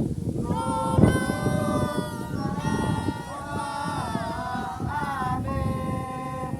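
Kompang troupe's voices singing a slow, drawn-out chant melody with long held notes that glide between pitches, over a low rumble of wind on the microphone. A single loud thump sounds about a second in.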